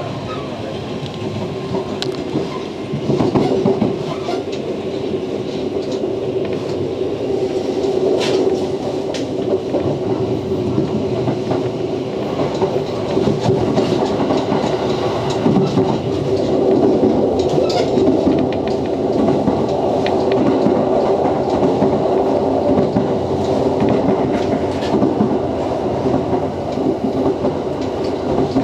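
Interior sound of a JR West 227 series electric train running along the line: a steady hum with the wheels clicking over rail joints now and then, slowly growing louder.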